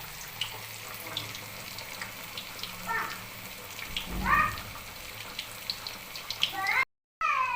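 Marinated chicken pieces frying in hot oil: a steady sizzling hiss. A few short, high, falling calls from a voice in the background come through it, and the sound drops out for a moment near the end.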